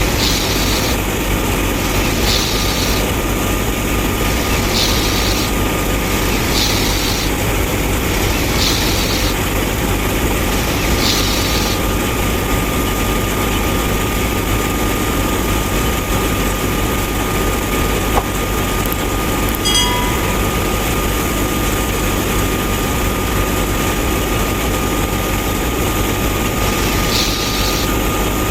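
Small motor-driven DIY mini thresher running steadily with a constant thin whine, and a short hiss about every two seconds through the first twelve seconds and again near the end.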